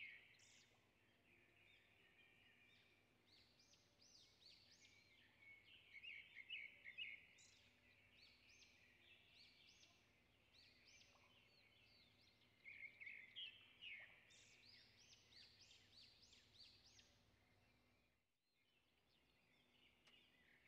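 Near silence, with small birds chirping faintly in the background in a few short bouts of quick notes.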